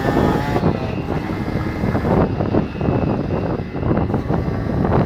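Small motorcycle engine running during a ride, its note rising and falling, with wind buffeting the microphone.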